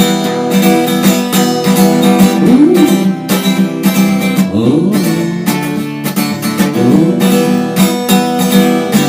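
Acoustic guitar strummed in a steady rhythm, playing the instrumental break of a song with no singing.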